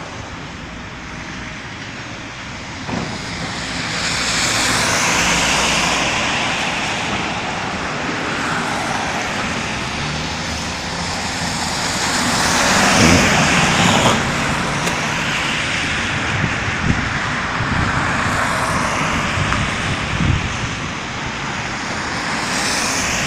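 Excavators demolishing garages: a steady diesel engine swells and eases under crunching and banging from the structures being broken up. Several knocks come through, and the loudest crash is about halfway through.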